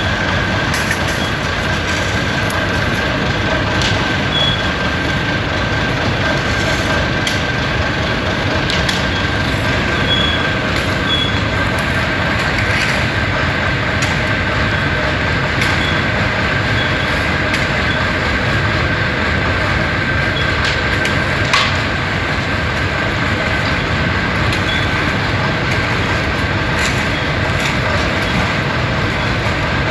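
AIMIX AS1.8 self-loading concrete mixer running: a steady mechanical drone with a constant high whine over it, and scattered short clicks and knocks.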